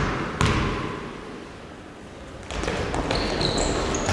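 A basketball bouncing on a gym floor: a hard thud about half a second in, ringing on in the hall's echo. It is followed by busier court noise with a few short high squeaks in the second half.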